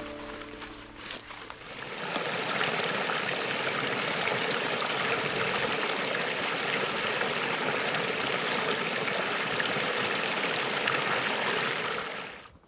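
Stream water running in a steady rush. It comes in about two seconds in and cuts off suddenly near the end.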